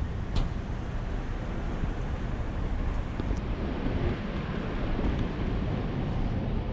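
Street ambience on a city walk: a steady rumble of road traffic with some wind on the microphone, and a short sharp click about half a second in.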